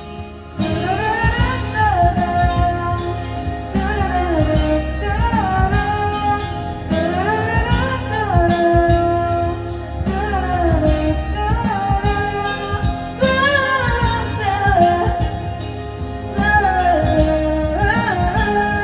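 Karaoke backing track of a pop ballad with a voice singing over it in long, gliding phrases.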